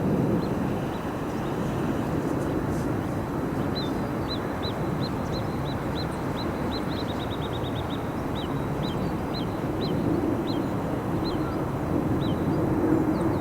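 A small bird calling a series of short, high notes that quicken into a fast run midway and then slow and thin out, over a steady low background rumble.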